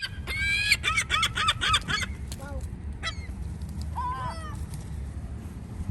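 Seagulls calling: a fast run of sharp, high, repeated calls in the first two seconds, then a few scattered calls.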